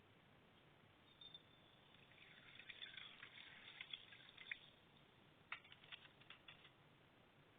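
Faint crunching and crackling of dry edible clay (multani mitti): a few small clicks about a second in, a dense crackle from about two to four and a half seconds, then a run of sharper crisp clicks near the end.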